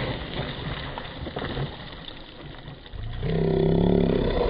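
Electric RC truck running through mud, its tyres churning. About three seconds in, a louder motor whine that sinks slightly in pitch.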